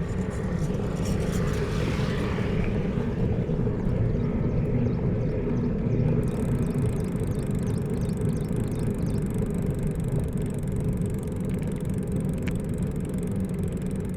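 Steady low rumble of wind buffeting the microphone and road noise from a moving bicycle. A brighter hiss swells and fades over the first few seconds.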